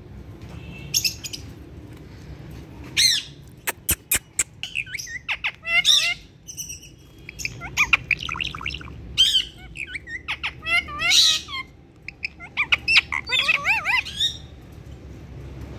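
Pet parrots calling: a string of short squawks and chirps, with a few sharp clicks about four seconds in and a quick warbling chatter near the end.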